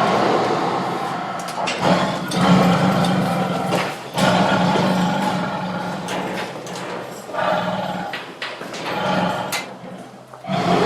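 Tiger roaring and growling in several long, rough bouts with short breaks between them.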